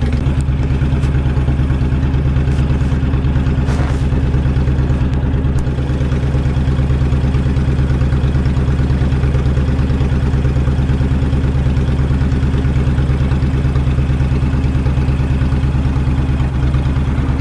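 Motorcycle engine idling steadily and loudly, its low, even pulse close to the microphone.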